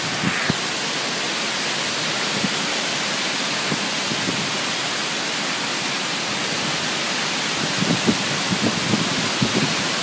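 Torrential thunderstorm rain pouring down in a steady, dense hiss, in what the observer takes for a downburst. Gusts of wind buffet the microphone in the last couple of seconds.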